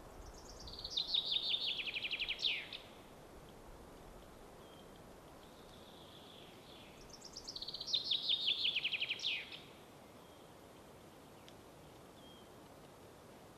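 A songbird singing twice, each song a fast run of notes that falls in pitch and ends in a quick flourish, about two seconds long, the second starting about six seconds after the first. A few faint short bird calls come in between over a steady soft hiss.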